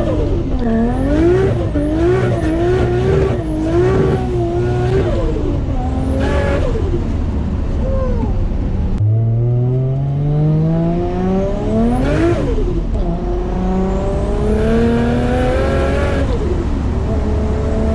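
Nissan R33 Skyline's built, turbocharged RB25DET straight-six accelerating, the revs rising and falling over and over at first. After an abrupt change about halfway, it pulls hard through the gears, the revs climbing and dropping sharply at each shift, twice.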